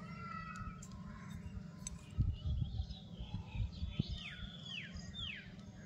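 A bird calling in the background with three falling whistled notes near the end, over low rumbling and a few knocks.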